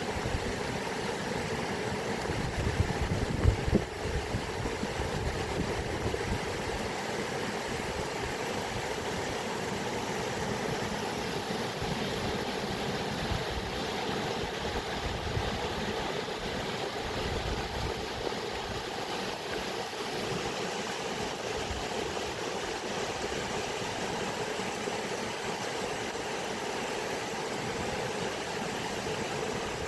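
Running water, a steady rush with a brief louder swell about three seconds in.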